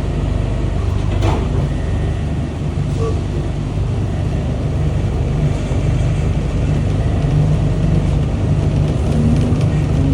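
Rubber-tyred LRT train running along its guideway: a steady low rumble, with one brief click about a second in.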